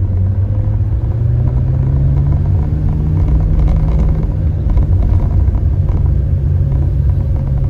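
Ferrari 360 Modena's mid-mounted 3.6-litre V8 heard from inside the cabin while driving, a steady engine drone that rises slightly in pitch over the first couple of seconds and then holds, over low road rumble.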